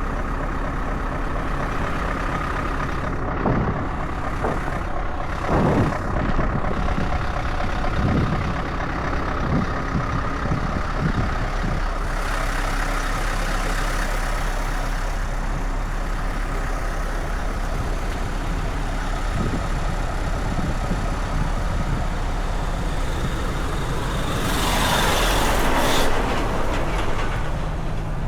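Scania S580 truck's V8 diesel engine running steadily while driving, with a few short knocks early on and a louder rushing noise for a couple of seconds near the end.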